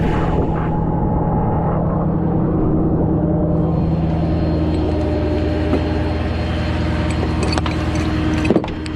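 Motor vehicle engine running steadily with an even low hum, with a few light clicks and a short knock near the end.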